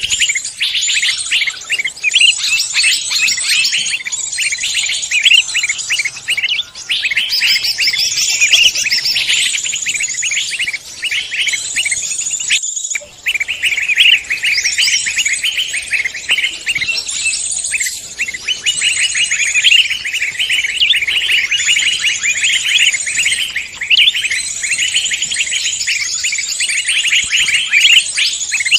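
Dense chorus of songbirds singing, many rapid, overlapping high chirps and trills, with a brief break about halfway through.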